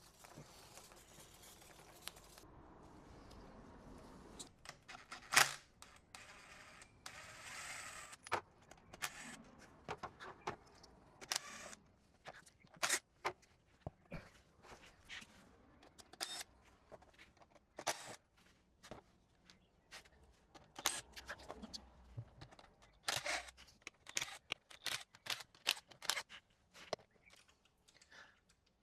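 Faint, irregular clicks, taps and light knocks of hand tools and parts being handled while working on a car's gearbox oil pan, with a short rushing hiss about seven seconds in.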